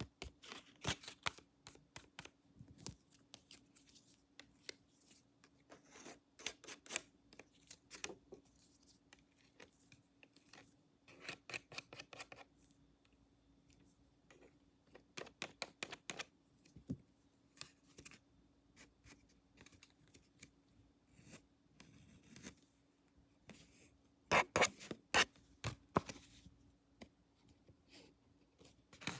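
Scissors snipping close to the microphone, in quick runs of sharp clicks with pauses between them. The loudest run comes near the end.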